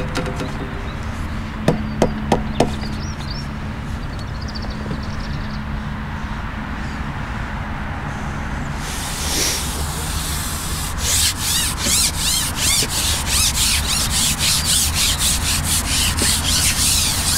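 A few sharp clicks about two seconds in, then a rhythmic scraping at about four strokes a second from the middle onward.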